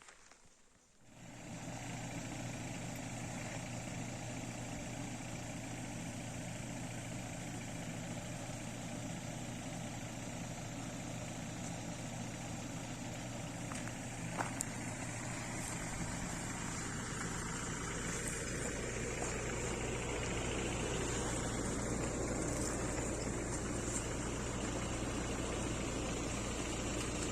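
A steady engine hum, as of a motor vehicle idling, that sets in about a second in and grows somewhat louder past the middle, with one brief click about halfway through.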